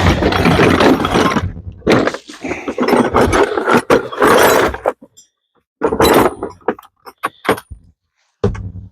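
Metal sockets and hand tools clattering and clinking as they are rummaged through, with a run of sharp separate clicks after a short pause about halfway through.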